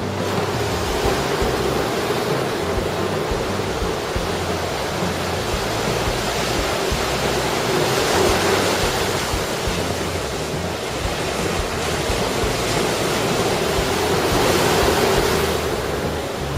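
Heavy typhoon surf breaking and rushing against a rocky coast, with strong wind buffeting the microphone. The roar swells louder about halfway through and again near the end.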